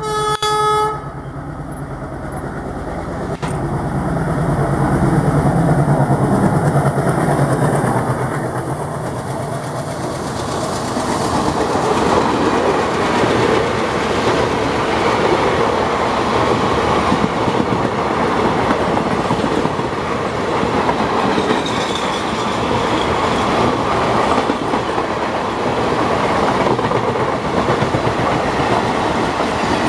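An ALCo-engined WDM3A diesel locomotive sounds a short horn blast, then passes with its engine running. Its passenger coaches follow, rolling by with the wheels clattering over the rail joints.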